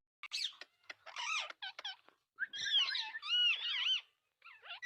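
Ringneck parrot chattering softly: a string of short warbling calls and squeaks that bend up and down in pitch, with brief pauses between them.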